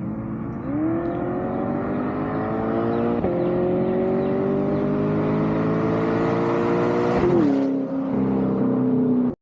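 C8 Corvette V8 through an aftermarket centre-exit track exhaust, revved up from idle just under a second in and held, its pitch climbing slowly for about six seconds before dropping back to idle.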